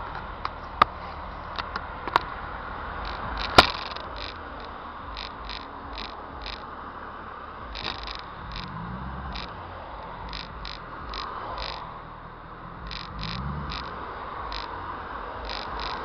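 Exhaust of a Mercedes-Benz E55 AMG (W211), a supercharged V8, running while the car is driven. There are a few sharp cracks in the first few seconds, and the engine briefly rises in pitch twice under throttle, near the middle and again about three-quarters through.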